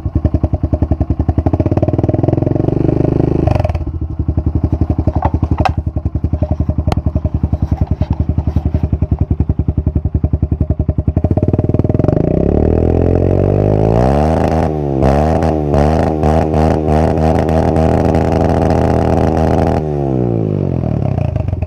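Honda CRF125F dirt bike's single-cylinder four-stroke engine idling, with a short blip of the throttle about two to three seconds in. From about twelve seconds it is revved up and held at high revs, wavering for several seconds, then drops back to idle near the end.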